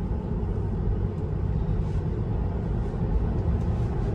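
Steady low road and tyre rumble heard inside a Tesla's cabin at high speed, with no engine note since the car is electric.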